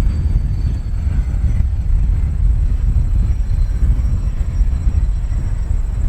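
Strong wind buffeting the microphone: a loud, continuous low rumble that rises and falls with the gusts. Faint thin high tones sit above it.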